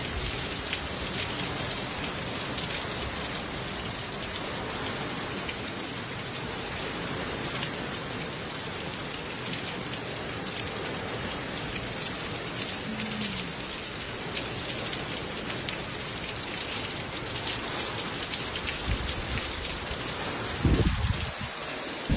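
Steady rain falling and pattering on surfaces, an even hiss dotted with fine drop ticks. A short low rumble rises up near the end.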